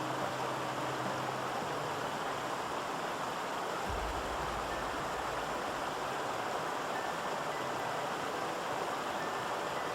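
Mountain stream water rushing steadily, a constant even wash of flowing water. About four seconds in there is a brief low rumble lasting a second or so.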